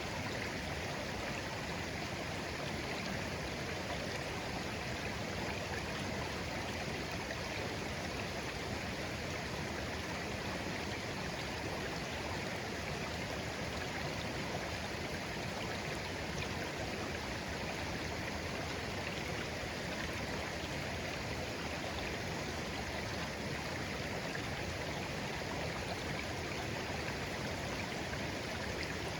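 Shallow clear stream flowing gently, a steady babble of water over stones.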